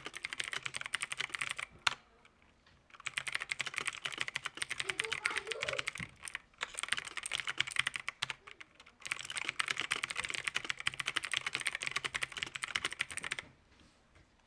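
Mechanical keyboard typed on rapidly in several fast runs of keystrokes with brief pauses between them, stopping shortly before the end.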